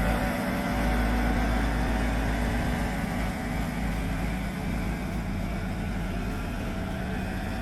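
Yamaha YT1070 crawler snowblower's engine running steadily.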